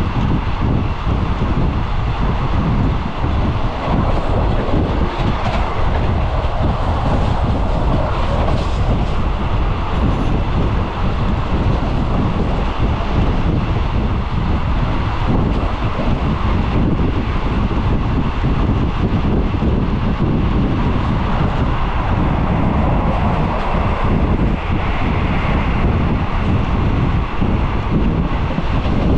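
Passenger train running at speed, heard from an open carriage window: a steady rumble of wheels on the rails with rapid rail clatter, mixed with rushing air.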